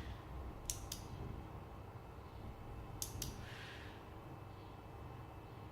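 Two pairs of sharp double clicks, the pairs a little over two seconds apart, over a low steady hum.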